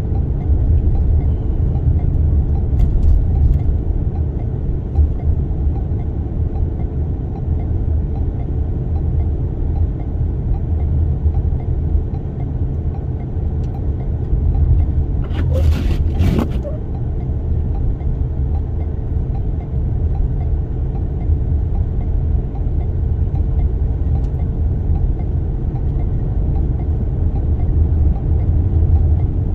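Steady low rumble of a Toyota Sienna minivan driving slowly through a snowstorm, heard from inside the cabin: engine, tyre and wind noise. A couple of brief sharp noises come about halfway through.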